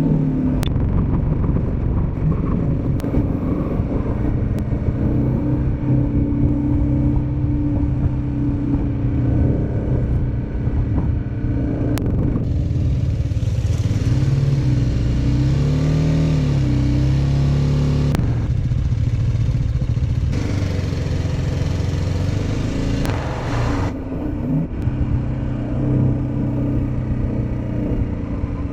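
Motorcycle engine running on the move, its pitch wavering up and down for a few seconds around the middle, with a rushing noise that swells twice.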